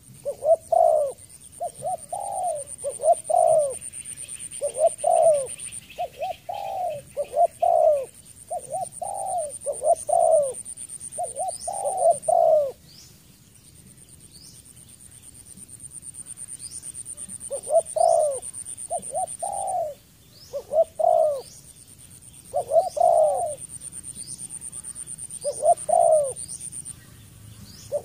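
Spotted dove cooing, repeated phrases of two or three low notes with a long pause about halfway through. A steady high-pitched whine runs behind it with a few breaks, and faint short rising chirps from another bird come about once a second in the second half.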